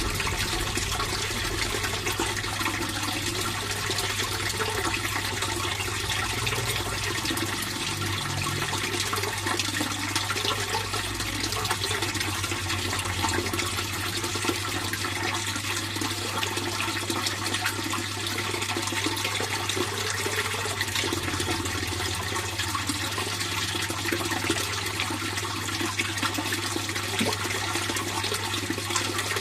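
Fish pond water flowing and splashing steadily, with a constant low hum underneath.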